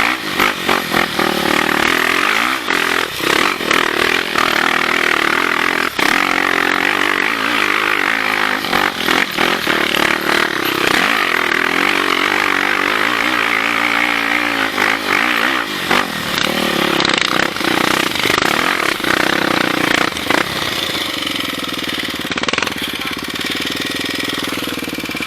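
Off-road motorcycle engine running hard on a trail, its revs rising and falling constantly, with clattering knocks throughout. After about 20 seconds the engine note settles steadier and lower.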